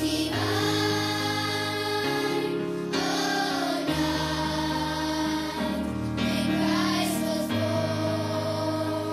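A choir singing with instrumental accompaniment: held chords over sustained low notes, changing every second or two.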